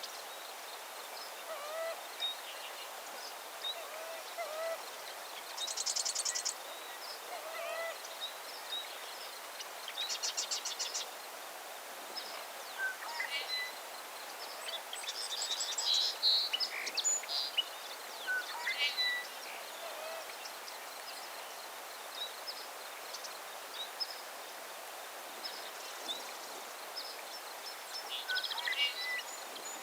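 Several birds calling and singing: scattered short chirps and whistles, with a few rapid trills, over a steady background hiss.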